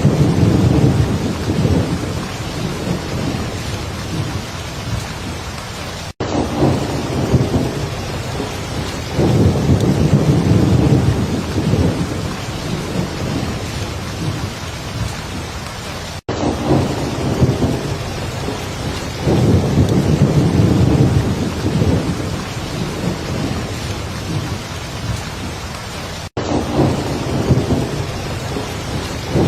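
Heavy rain falling steadily, with low thunder rumbles swelling and fading about every ten seconds. Brief dropouts break the sound at the same spacing.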